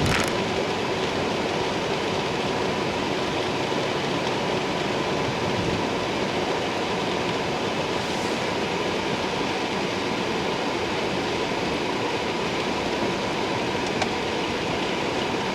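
Steady rushing noise of an ice storm's wind and freezing rain, unchanging throughout, with a faint steady hum underneath.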